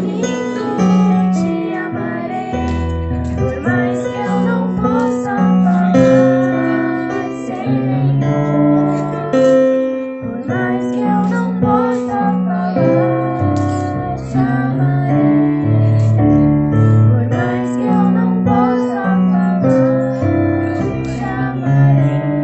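A slow song on keyboard (electric piano), with a girl's voice singing over it.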